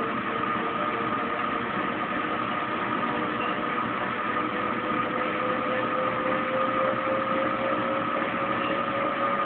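Kenmore Oasis top-load washing machine in its spin cycle, the drain pump running as the basket spins up: a steady mechanical hum with one tone rising slowly in pitch as the basket gathers speed.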